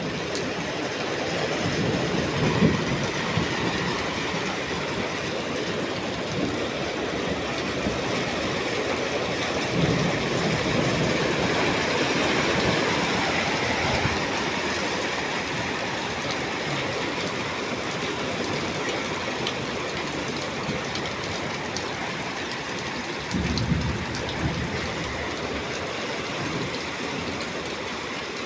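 Heavy rain pouring steadily, with a few low gusts of wind hitting the microphone near the start, about ten seconds in, and again a few seconds before the end.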